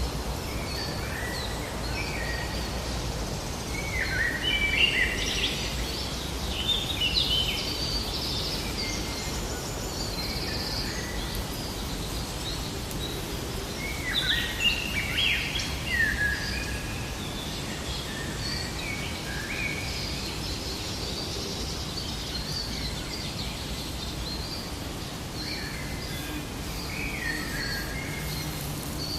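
Songbirds chirping and warbling in short phrases, busiest about four to eight seconds in and again around fourteen to seventeen seconds, over a steady outdoor background noise.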